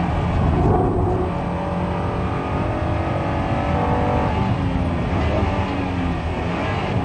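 Honda NSX Type R's 3.0-litre V6 engine pulling hard at track speed, heard from inside the cabin. The engine note climbs in pitch through the middle and settles lower again near the end, over steady tyre and road noise.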